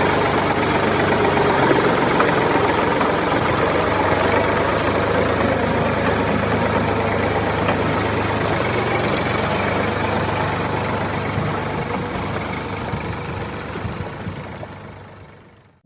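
Tractor engine idling steadily, fading out over the last few seconds.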